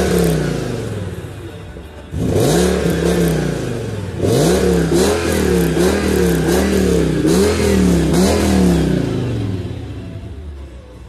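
Audi A6 engine revved while parked: a single rev at the start, another about two seconds in, then a quick run of about five throttle blips, before falling back to idle near the end.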